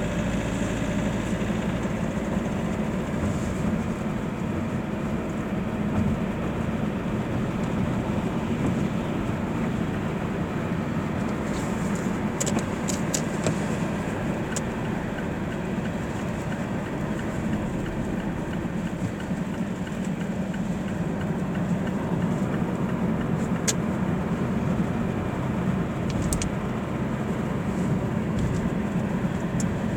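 Mazda 6 running with a steady, even drone, a few faint short ticks coming through around the middle.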